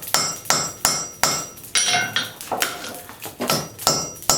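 Blacksmith's hammer striking the hot end of a railroad spike on an anvil in a steady rhythm of about two and a half blows a second, each blow with a short metallic ring. The end of the spike is being upset, driven back on itself to build up mass.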